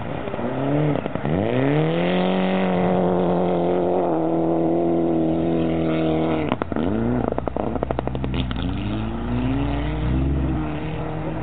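Rally car engine revving hard as the car slides through snow: the revs climb and hold high for several seconds, drop sharply about six and a half seconds in with a quick run of crackles, then climb again.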